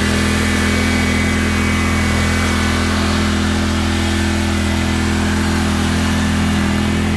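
John Deere Z530R zero-turn mower's engine running steadily at an even speed.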